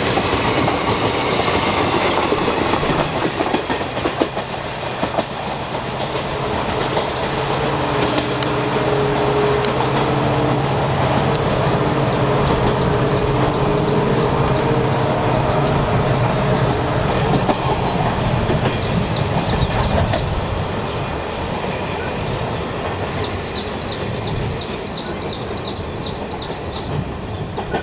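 Indian Railways passenger express train running past on the track: a continuous noise of wheels on rail, with a steady low hum for several seconds in the middle.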